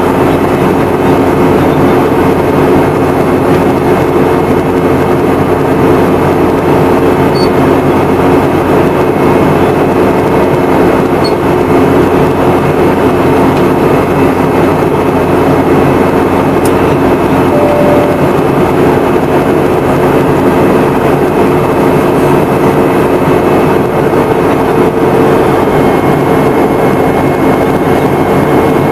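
Steady engine and airflow noise inside the cabin of a Boeing 717, with a constant hum of several tones from its rear-mounted Rolls-Royce BR715 turbofans.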